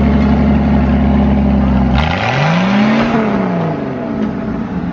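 Vehicle engine running steadily, then after a sharp click about two seconds in it revs once, its pitch rising and falling back.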